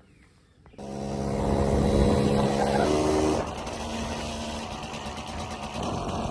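Two-stroke Honda Nova Tena motorcycle engine running under way. It cuts in sharply about a second in, then drops back a little over halfway through.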